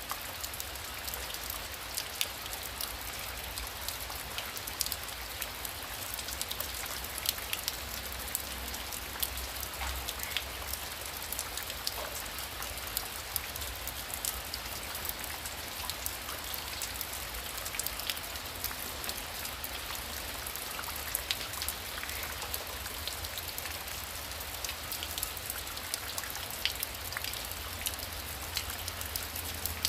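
Heavy rain falling steadily, with many individual drops ticking sharply through the hiss and a low steady rumble underneath.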